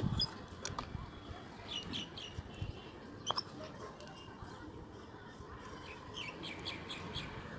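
Birds chirping in the background: short high chirps come in small clusters about two seconds in and again near six seconds, with a sharp click in between.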